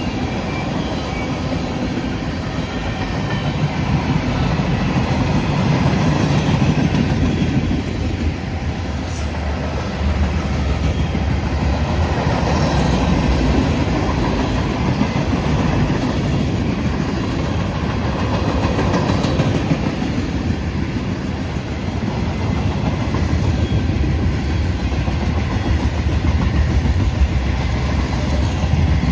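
CSX freight train rolling steadily past, a continuous rumble of the cars' wheels on the rails.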